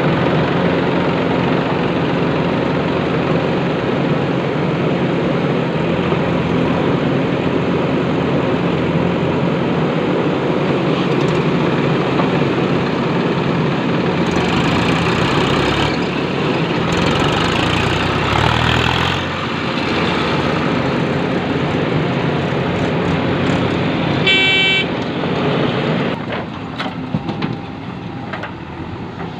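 Heavy diesel machinery running steadily, with a short horn toot about 24 seconds in; the engine noise drops off near the end.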